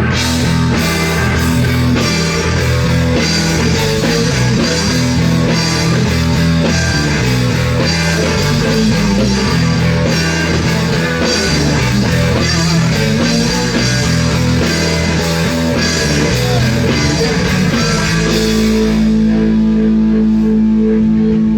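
Rock band playing: electric guitar, bass and drums driving a steady beat. About 18 seconds in, the band settles onto a long held chord.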